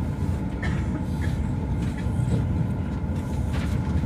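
Steady low rumble inside a rapid train's carriage as the train runs on the rails.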